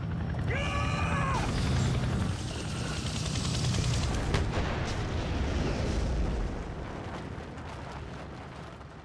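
Chinook helicopter crashing into a hillside and exploding, in a dramatised crash sound: a dense, loud rumbling roar with one sharp crack about four seconds in. It dies away over the last few seconds.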